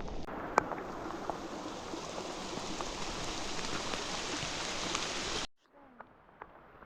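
Steady rain falling, with scattered ticks of individual drops; it cuts off abruptly about five and a half seconds in, leaving only faint background.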